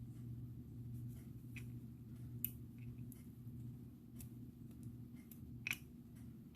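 Scattered faint clicks and taps of gemstone and glass beads being handled on a bracelet cord, over a steady low hum.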